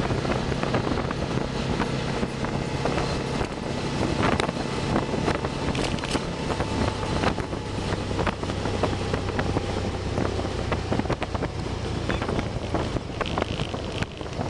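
Can-Am Spyder engine running at a steady cruising speed, with wind buffeting the microphone.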